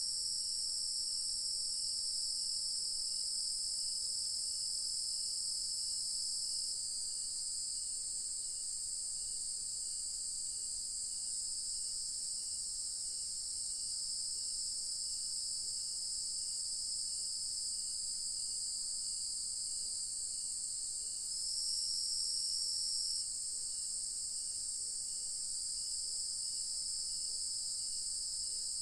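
Evening chorus of crickets and other insects: a continuous, high-pitched, layered trill. One layer grows louder near the start and again about three-quarters of the way in, over a faint, regular pulsing call.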